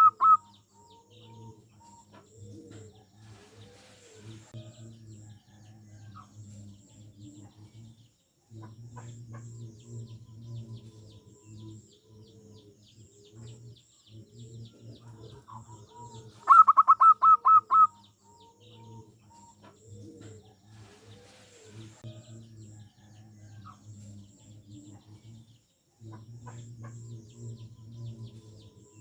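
Zebra dove (perkutut) singing: soft repeated cooing notes throughout, and one loud, rapid run of staccato notes about seventeen seconds in.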